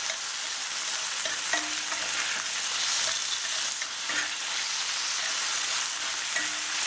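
Red fly agaric mushrooms sizzling steadily as they fry in a frying pan.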